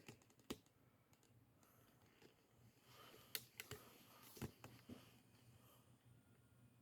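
Near silence with a faint steady low hum, broken by a few light clicks: one about half a second in and a cluster between three and five seconds in.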